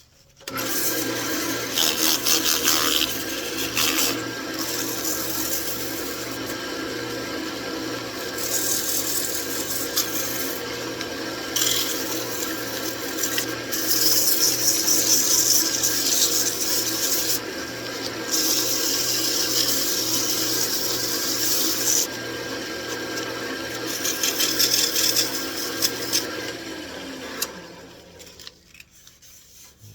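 Wood lathe spinning a wooden dish lid while sandpaper is held against it: a steady motor hum under a rubbing hiss that swells and eases in stretches as the paper is pressed on and lifted. The lathe starts just after the beginning and winds down near the end.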